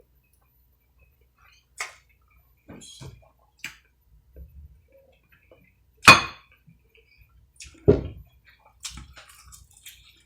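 A person eating fried fish close to the microphone: scattered mouth and chewing sounds with clicks and clinks, the loudest a sharp click about six seconds in and another about two seconds later.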